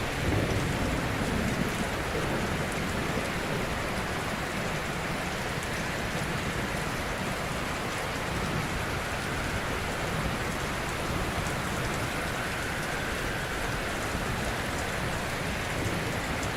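Ocean surf: waves breaking gently on a shore in a continuous wash, with slow low swells and a slightly louder surge just after the start.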